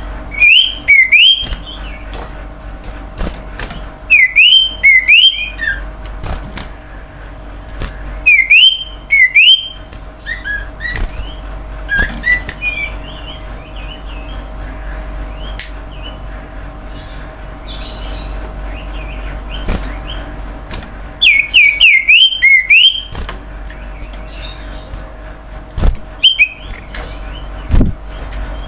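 Common iora (cipoh) song: short phrases of quick, rising-and-falling whistled notes, delivered loudly in about five bursts a few seconds apart, with softer twittering in between.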